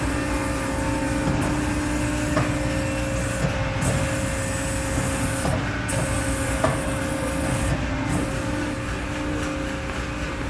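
Hydraulic power unit of a 250-ton CNC press brake running: a steady motor-and-pump hum with two steady tones over a low rumble, and a few light clicks.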